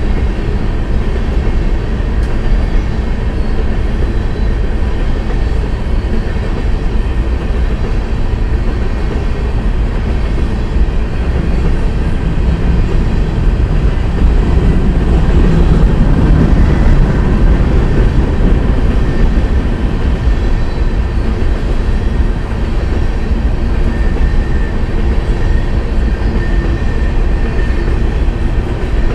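Freight train of hopper cars rolling past: a steady rumble of steel wheels on the rails, swelling a little about halfway through.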